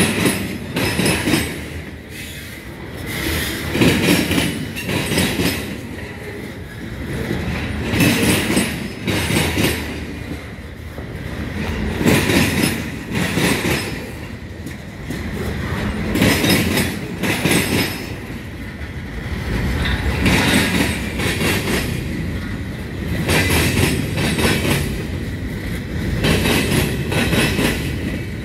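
Freight cars of a CSX train rolling past at slow, restricted speed, their wheels clacking over the rail joints. The sound swells about every four seconds as each car's wheel sets go by.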